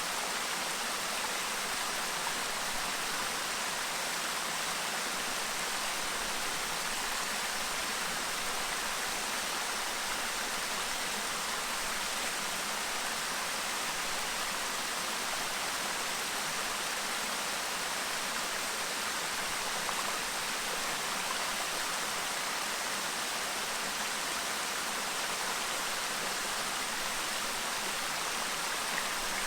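Clear river babbling steadily: an even rush of flowing water that never lets up or changes.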